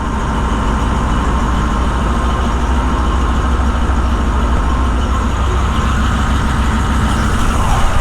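Large heavy-equipment diesel engine running steadily, a deep even rumble with a faint steady whine above it.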